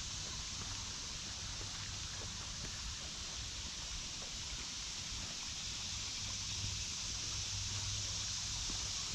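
Woodland ambience: a steady high drone of cicadas over babbling creek water, with faint light footsteps on the trail.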